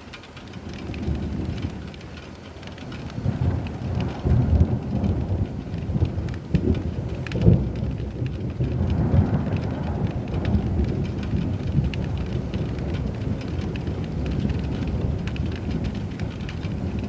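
Steady rain with a long rolling thunder rumble that builds about a second in, swells to a few loud peaks, then carries on as a continuous low rumble under the rain.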